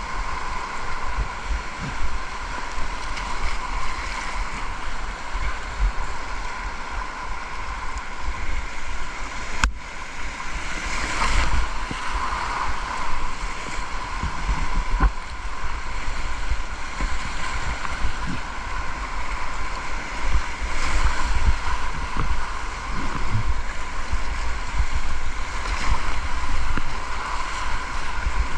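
Rushing river water around a kayak, a steady noisy wash, with wind buffeting the microphone.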